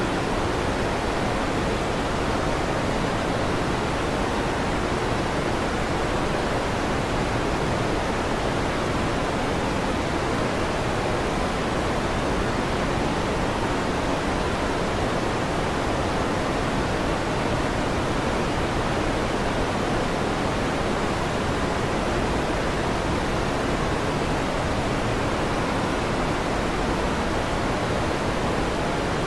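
Electric fan running, a steady, even whooshing noise with no rises, breaks or thunderclaps.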